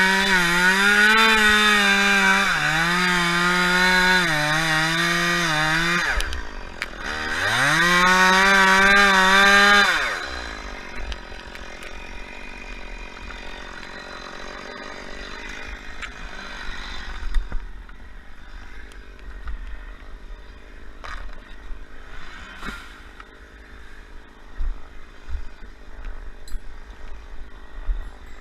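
Chainsaw running at high revs, its pitch wavering as it works. About six seconds in the revs drop briefly and then climb back up. Near ten seconds the engine falls away, leaving only low scattered knocks and clatter.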